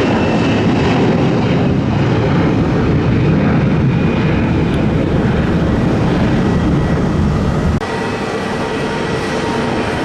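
Loud jet airliner engine noise, a steady low roar, that cuts off abruptly about eight seconds in to a quieter steady rumble.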